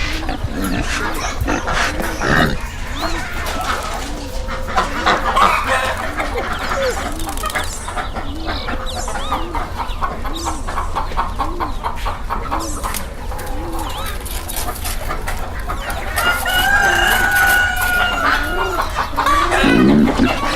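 Chickens clucking, with a rooster crowing about sixteen seconds in, over a low call that repeats about once a second.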